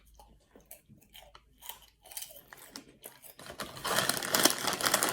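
Crunchy plant-based pork rinds being chewed with the mouth close to the microphone. A few faint crunches at first, then dense, louder crunching from a little after halfway.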